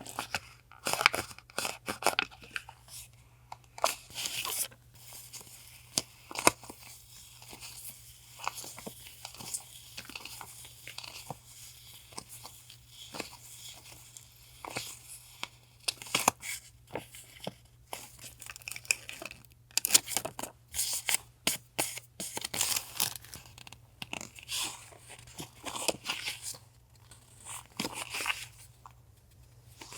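Paper and plastic packaging being handled, torn open and crinkled: irregular sharp rustles, crackles and clicks, with a refrigerator's steady low hum underneath.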